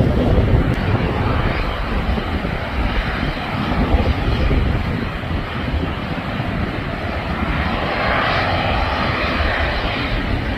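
Airliner engines at takeoff power: a continuous loud rumble, with a rush of mid-pitched noise swelling about eight seconds in.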